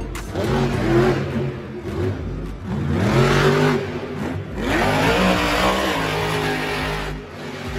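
Monster truck engine revving hard, its pitch climbing and falling back about three times over heavy running noise.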